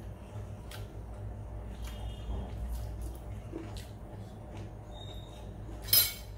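Close-up mouth sounds of someone eating rice and curry by hand: soft chewing and small wet clicks and smacks over a low steady hum. A brief, much louder noisy burst comes near the end.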